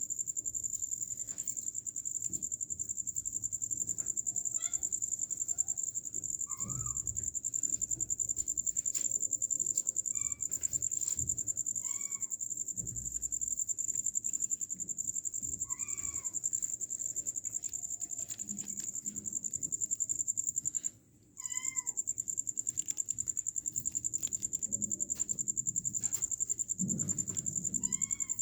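Kittens mewing: short, high, thin mews every few seconds, about seven in all. A steady high-pitched hum runs underneath.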